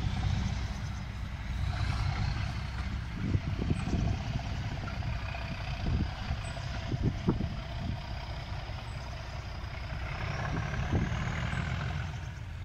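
Heritage passenger train moving away along the line: a steady low rumble, with a few short low thumps in the middle.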